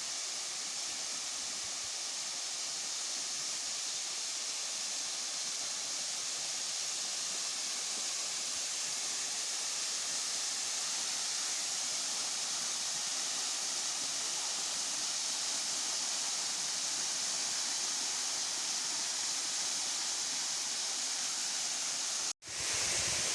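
Waterfall: water falling and splashing in a steady, even rush, with a momentary dropout near the end.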